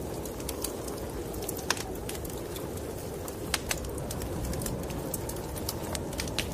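Wood fire crackling in a fireplace: irregular sharp pops, a few louder ones around the middle, over a steady low rushing noise of a snowstorm.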